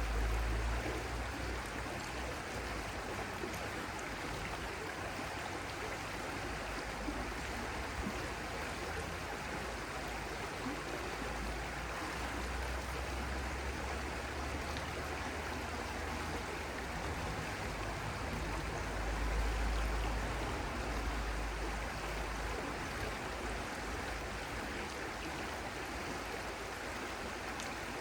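Stream water running steadily with an even rushing, swelling a few times with a deep low rumble.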